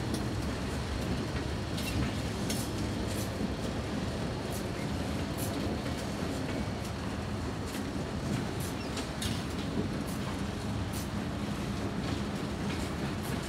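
A train running past: a steady low rumble with sharp clicks at uneven intervals from the wheels.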